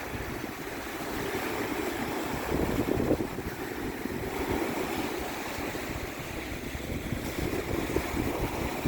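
Strong wind buffeting the microphone in uneven gusts over waves washing on the shore.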